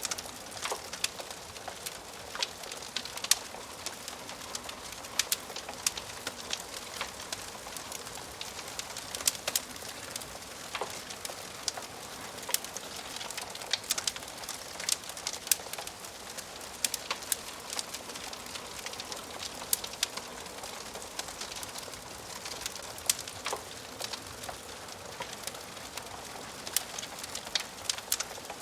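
Wood fire crackling in a fireplace: a steady hiss with frequent sharp pops and snaps from the burning logs.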